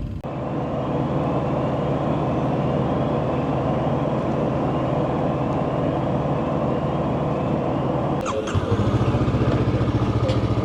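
A vehicle engine idling steadily. About eight seconds in there is a brief sharp clatter, then a louder, evenly pulsing engine idle takes over.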